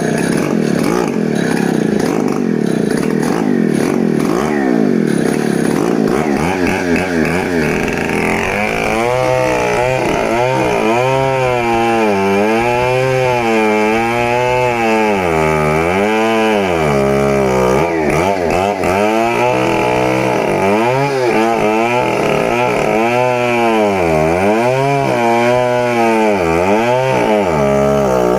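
Stihl MS 070 two-stroke chainsaw running at high speed, fairly steady at first, then about eight seconds in its engine pitch begins to rise and fall over and over.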